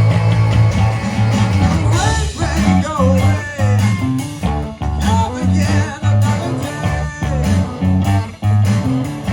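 Live blues-rock band playing an instrumental passage: electric guitar over a repeating bass line and drums. From about two seconds in, a lead line bends its notes up and down.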